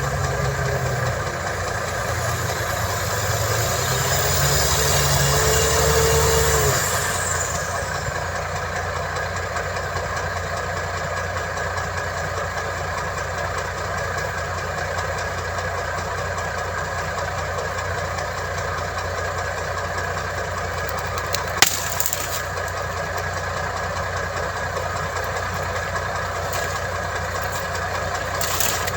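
Heavy construction machine's diesel engine held at raised revs for the first seven seconds or so, with a rising whine, then dropping back to a steady idle. A single sharp click comes about two-thirds of the way through.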